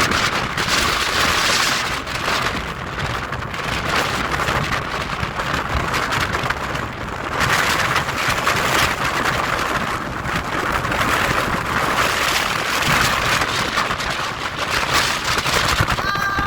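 Strong storm wind blowing across the microphone together with the rush of heavy ocean surf. It is a loud, even rushing noise that swells in gusts and eases again.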